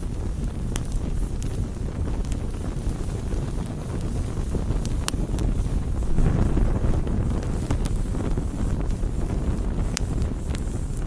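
Campfire burning: a steady low rushing of the flames with scattered sharp crackles and pops from the wood, swelling louder about six seconds in.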